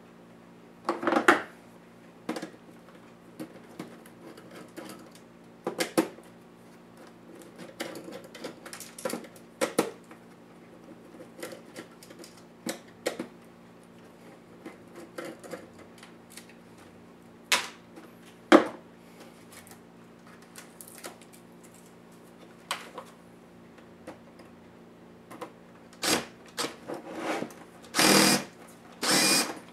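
Irregular clicks, taps and knocks of plastic laptop parts and small tools being handled during disassembly, over a steady low hum, with a few longer, louder scraping bursts near the end.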